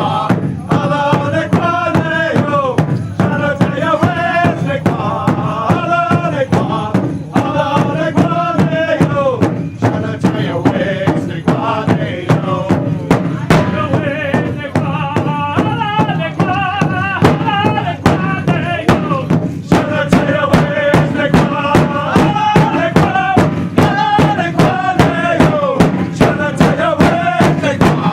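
Pow-wow drum and singing: voices singing a chant over a large drum struck in a steady, even beat.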